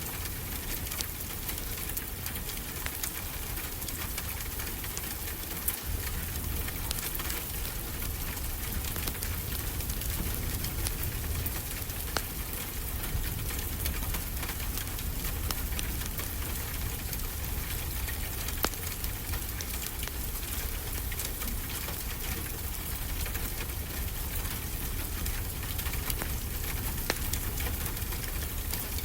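Wood fire crackling, with scattered sharp pops, over a steady wash of ocean surf with a low rumble.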